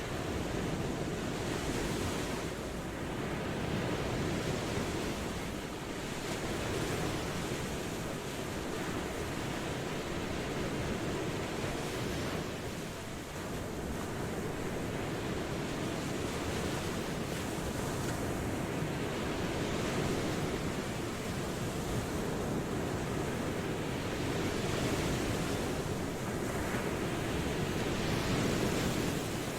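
Ocean waves washing on the shore: a continuous rush of surf that swells and eases gently every few seconds.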